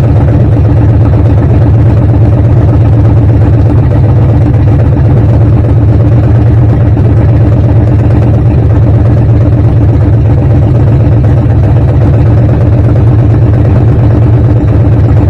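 A classic truck's engine idling steadily and loud.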